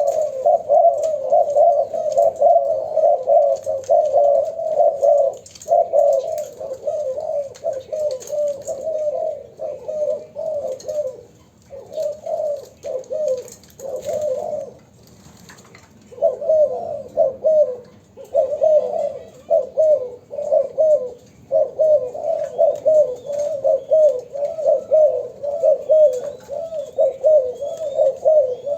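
Young spotted doves cooing over and over in dense, overlapping runs of short notes, with a few brief pauses.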